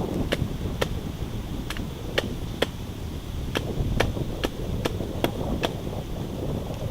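Wind buffeting the microphone, with a string of about a dozen sharp taps or clicks at roughly two a second, pausing now and then.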